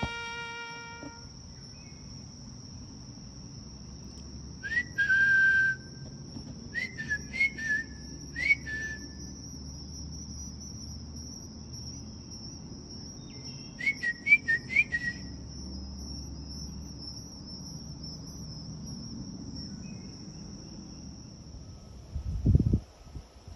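Several short whistled bird calls, each with a quick upward flick, in three groups, over a steady high insect trill. A dull low thump near the end.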